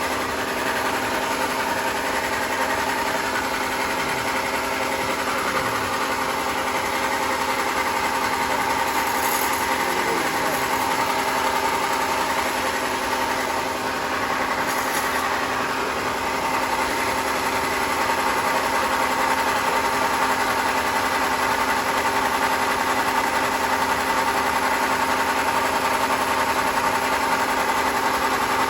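Sawmill machinery running steadily, an engine or motor hum that holds one pitch throughout with no cutting strokes.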